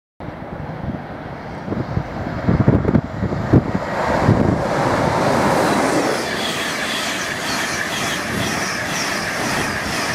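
A Virgin Trains East Coast express passes through the station at speed. It starts as a growing rumble with a run of sharp wheel knocks over the track, then turns to a steady, louder noise of the coaches going by, with a repeating clatter.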